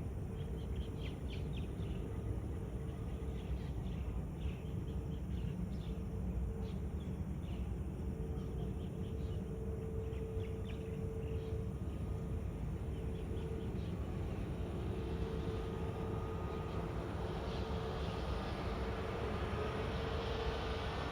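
Small birds chirping over a steady low rumble and hum; in the last few seconds a jet aircraft's engine noise builds, with a higher whine rising over the rumble.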